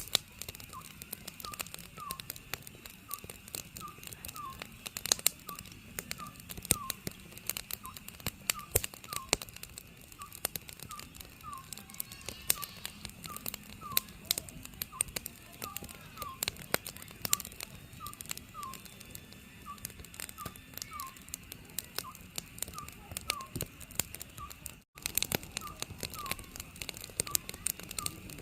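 Oriental scops owl calling steadily, a short falling note repeated in small groups about twice a second, over a wood fire crackling and popping. The sound cuts out for an instant near the end.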